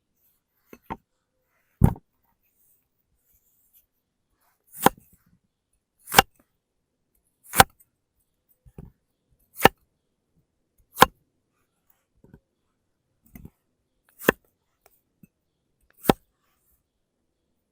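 Knife chopping on a cutting board in single deliberate strokes, about eight sharp chops spaced one to two seconds apart with a few lighter taps between.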